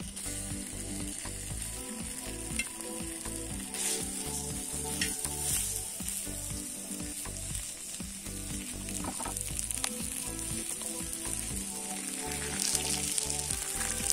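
Cubes of raw pork fat sizzling and frying in a large, hot cast-iron pan over a wood fire, a steady high hiss with occasional crackles.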